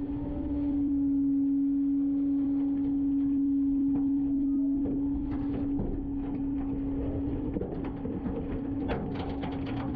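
Garbage truck packing its load: a steady humming tone from the running packer, loudest for about the first six seconds and then weaker. Light clanks come through near the middle and end.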